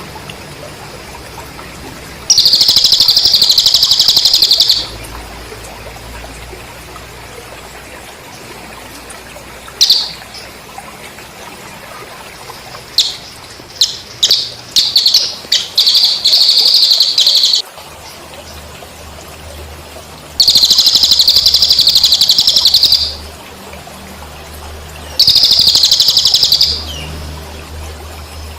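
Recorded cililin bird song mixed with cricket chirping: three loud, high, rapidly pulsed trills of two to three seconds each, a single sharp note, and a run of short quick chirps near the middle. A steady trickle of water runs underneath.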